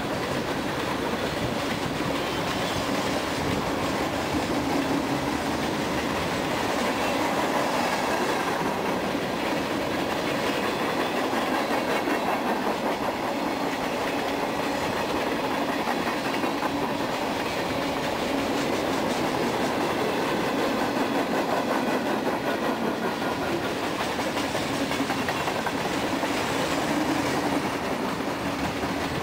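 Freight train cars rolling steadily past, steel wheels clacking over the rail joints with a continuous rumble and rattle.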